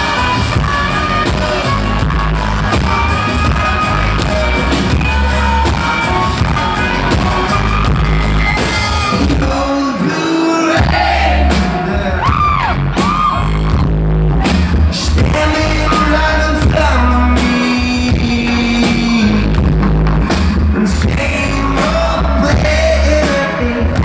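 Live concert performance of a pop-rock song: a male lead singer over a steady bass and drum beat with guitar. The bass drops out briefly about ten seconds in.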